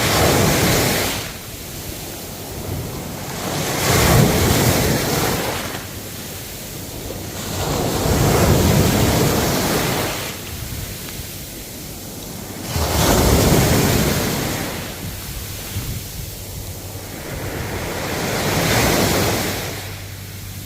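Ocean waves breaking and washing in a slow, regular rhythm, one surge about every four to five seconds.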